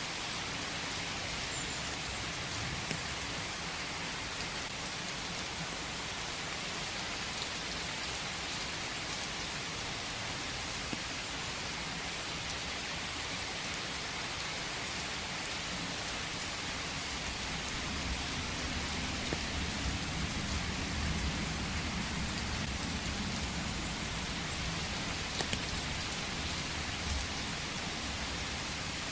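Steady rain falling in a forest, an even hiss with a few separate drops ticking. A low rumble swells for several seconds past the middle.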